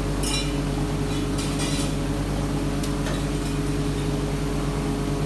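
Workshop machinery running with a steady low hum, with a few light metal clinks about half a second, a second and a half, and three seconds in.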